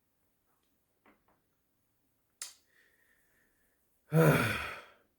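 A man's short sigh near the end, after a couple of soft clicks in near quiet.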